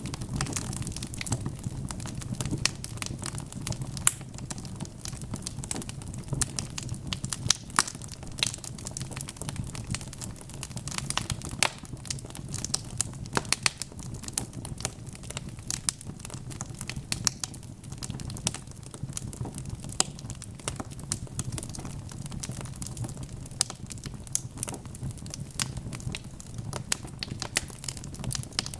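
Wood fire burning in a fireplace: a steady low rumble of flames with dense, irregular crackles and sharp pops from the logs.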